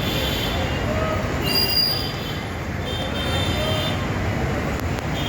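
Busy city street traffic: a steady rumble of vehicles, with high-pitched squeals or whines that come and go.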